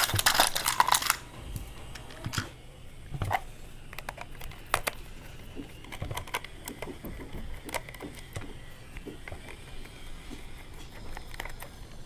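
A screwdriver backing the screws out of a multimeter's plastic back case, with handling of the meter. A loud rustle in the first second, then scattered small clicks and taps.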